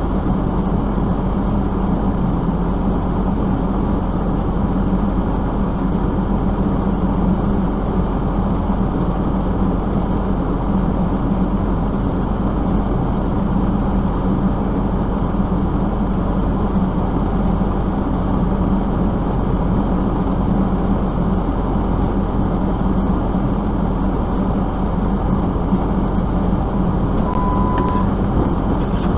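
Steady low drone of a running vehicle with its road or fan noise, unchanging throughout. A short single beep sounds near the end.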